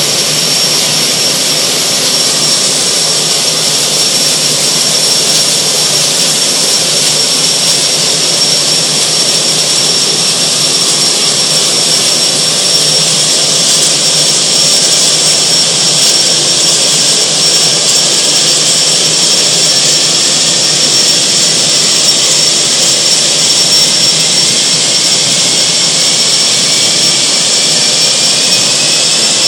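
Air Tractor AT-502's single turboprop engine running steadily on the ground, with a constant high-pitched turbine whine. Over the last few seconds a second tone climbs in pitch as the engine begins to speed up.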